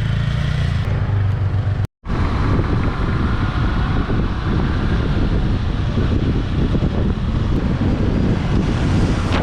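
Motorcycle riding noise: wind buffeting the microphone over a steady rumble of engine and road. It drops out abruptly for a split second about two seconds in.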